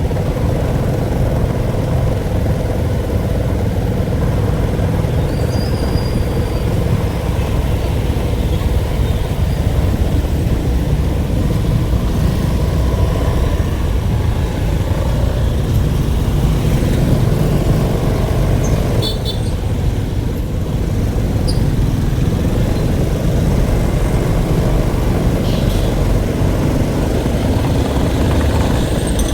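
Steady, loud vehicle rumble with no change in pitch or rhythm.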